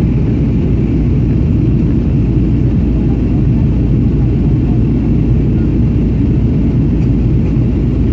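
Steady low rumble of a Boeing 737-800 in flight on approach, heard inside the passenger cabin: engine and airflow noise, even and unchanging.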